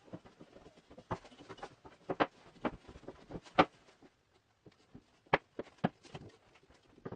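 Irregular light knocks and clicks of wooden parts being handled and set down, the sharpest about three and a half seconds in.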